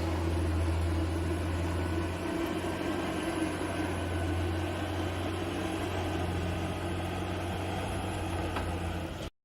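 Steady drone of a vehicle heard from inside the cabin, with a strong low hum, cutting off suddenly near the end.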